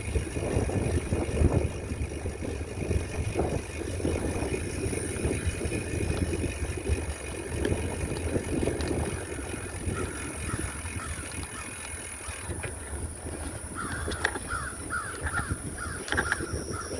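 Low rumbling wind and movement noise on the microphone during a bike ride, with a quick run of short harsh bird calls over the last few seconds.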